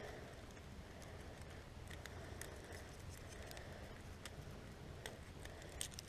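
Faint outdoor hush with a few scattered light ticks, a couple of them sharper near the end.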